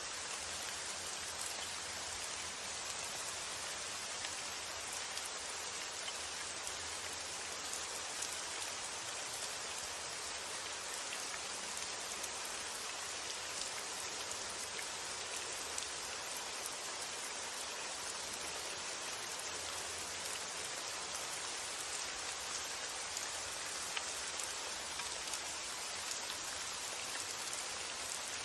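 Steady rain falling: a constant even hiss with scattered drops ticking through it.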